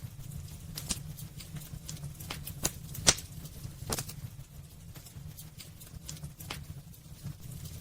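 Wood fire burning in a fireplace: irregular sharp crackles and pops from the burning logs, the loudest about three seconds in, over a steady low rumble of the flames.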